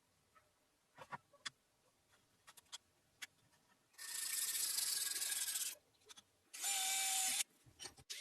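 A few light clicks and taps, then two short bursts of a power tool working on the piece: one about a second and a half long, then a shorter one with a steady motor whine.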